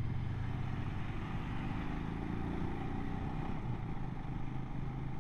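Royal Enfield Himalayan's single-cylinder engine running steadily while the motorcycle is ridden, with wind and road noise.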